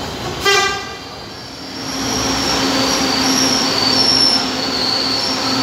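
LRT Line 2 train pulling in alongside the platform. A brief loud tone sounds about half a second in, then the rush of the train builds from about two seconds in, with wavering high wheel squeal over a steady low hum.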